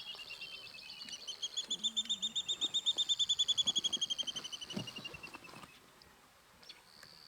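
A bird calling in a long, fast trill of repeated high notes that builds in loudness, then fades with a slight fall in pitch.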